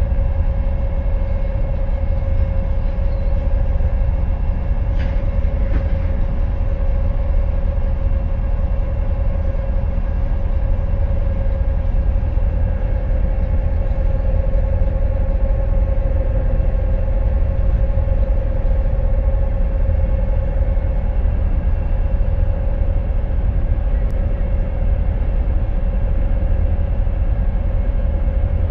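A vehicle engine running steadily under load: a continuous low rumble with a steady mid-pitched whine over it, unchanging throughout.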